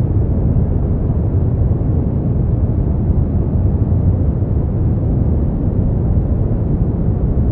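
Steady synthetic white noise for sleep, deep-toned and even, with most of its energy low and no high hiss.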